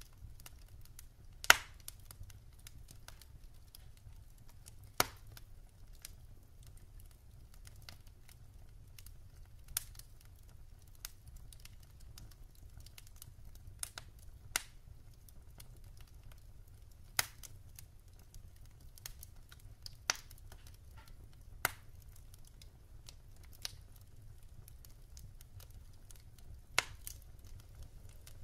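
Wood fire crackling in a fireplace: sharp, irregular pops and snaps from the burning logs every second or few, the loudest about one and a half seconds in, over a low steady hum.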